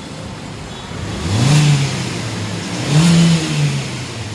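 Maruti Suzuki K-series petrol engine idling and revved twice, the pitch climbing and dropping back to idle each time, about a second and a half apart.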